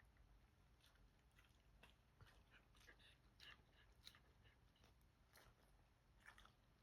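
Faint irregular crunching and clicking of a dog chewing its heartworm preventive.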